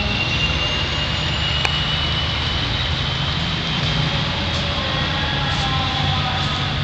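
A heavy vehicle engine running steadily, a low rumble with a thin high whine above it that rises slowly in pitch.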